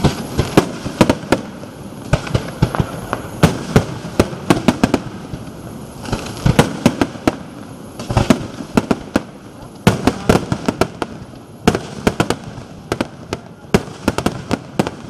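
Aerial fireworks bursting: a dense, irregular string of sharp bangs and cracks, often several a second, over a steady background hiss.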